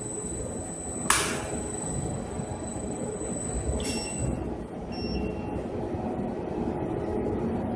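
Industrial washing machine running with a steady rumble. A sharp click comes about a second in, and another near four seconds, followed by short high tones.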